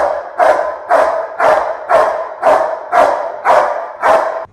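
Belgian Malinois barking steadily and rhythmically, about two barks a second, which cut off abruptly near the end.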